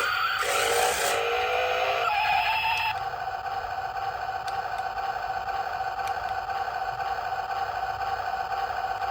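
Small electric motor of a remote-control toy whining, uneven at first, then settling to a steady pitch about three seconds in.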